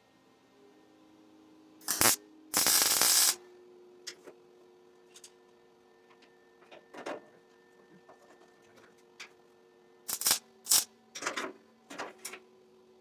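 A short welding tack on a small steel piece, a loud crackling burst lasting under a second, followed by scattered sharp clicks and knocks of metal parts being handled, over a faint steady hum.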